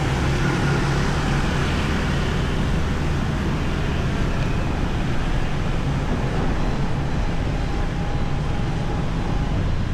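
Steady road noise from a motorbike ride through city traffic: the bike's engine running under a wash of wind and passing traffic.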